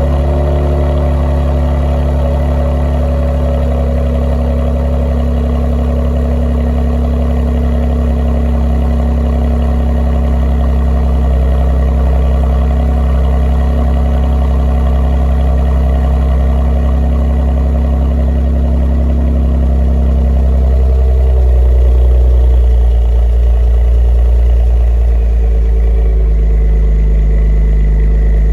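Kia Stinger GT2's twin-turbo V6 idling steadily through a Borla S-Type cat-back exhaust after a cold start; about twenty seconds in the idle drops to a lower, deeper note as the cold-start fast idle settles.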